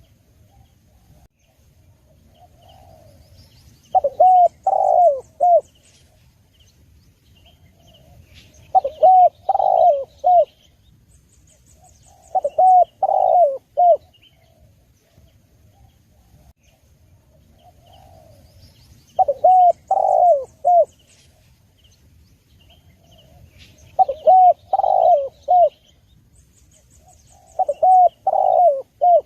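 Spotted dove cooing: six phrases of several short, arched coos each, repeating every four to five seconds. Faint chirps of small birds sound between the phrases.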